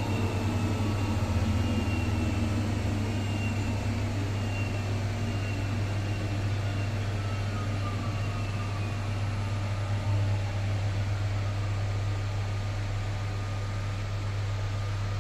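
Electrolux Professional WN6-20 washing machine's drum coasting down after its final spin: a whine that slowly falls in pitch over a steady low hum.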